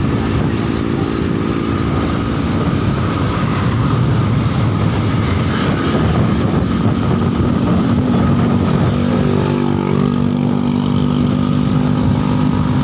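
Motorcycle engine running at steady cruising speed, mixed with strong wind and road noise. About two-thirds of the way through, the engine note dips and settles into a steadier hum.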